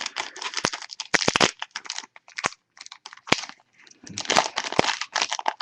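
A foil trading-card pack wrapper being torn open and crinkled by hand, a dense run of crackles and sharp snaps.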